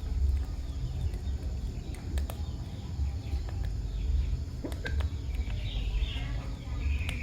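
Faint bird chirps scattered over a steady low outdoor rumble, with a few light clicks.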